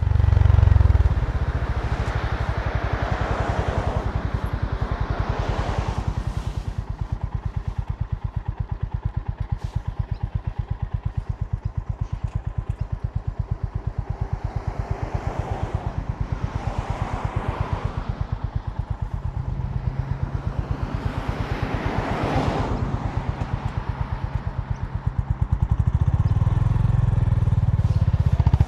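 Honda GB350's air-cooled single-cylinder engine running with a steady, even exhaust pulse, growing louder and fuller near the end. A rushing noise swells and fades a few times over it.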